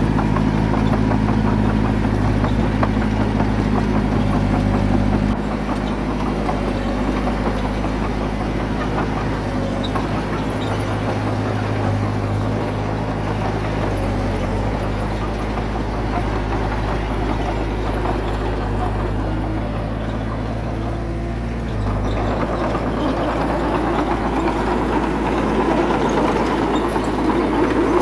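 Bulldozer's diesel engine running steadily. It eases off about five seconds in and picks up again with more clatter a few seconds before the end.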